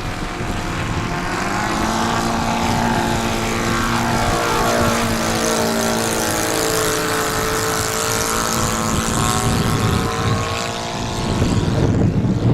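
Radio-controlled model seaplane's propeller engine flying past. Its pitch falls as it goes by, then holds steady at full throttle.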